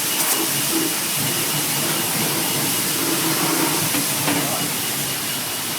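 Steady hissing spray, typical of a car-wash high-pressure wand running continuously.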